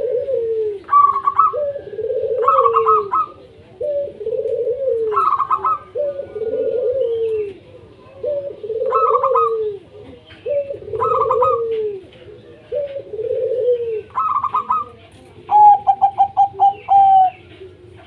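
Zebra doves (perkutut) cooing: a phrase of arching coos with quicker, higher notes above it, repeated about every two seconds. Near the end comes a louder, fast run of short staccato notes.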